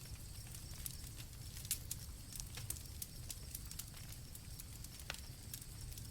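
Campfire crackling, with irregular sharp pops over a low rumble of burning wood, and crickets trilling steadily and faintly behind it.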